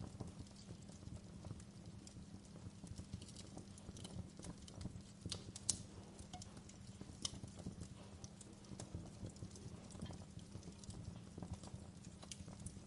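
Wood fire crackling in a fireplace: irregular sharp pops and snaps, the loudest about halfway through, over a steady low rumble of the burning fire.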